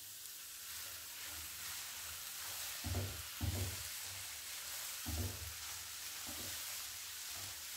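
Grated-carrot halwa with khoya sizzling as it fries in a pan while a wooden spatula stirs it. A few dull knocks of the spatula against the pan come around the middle.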